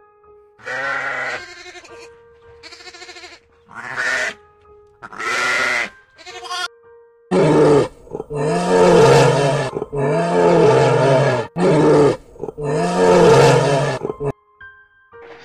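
A series of drawn-out animal calls, each rising and then falling in pitch, over soft background music. From about halfway through, the calls become louder and deeper.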